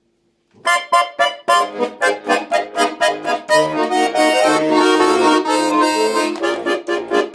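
Accordion playing a song's instrumental introduction. It starts about half a second in with short, rhythmic chords, then moves to longer held chords with bass notes beneath.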